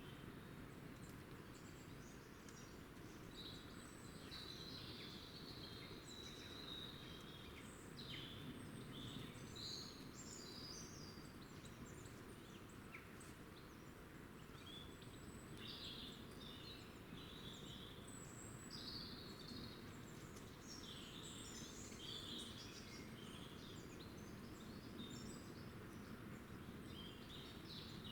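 Small birds chirping in many short, high calls, scattered throughout, over a steady faint outdoor background noise.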